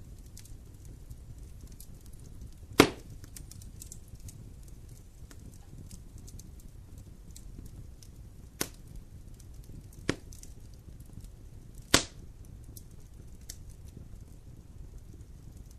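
Wood campfire burning with a low steady rumble and faint continuous crackling, broken by four sharp pops of burning wood, the loudest about three seconds in and near the end.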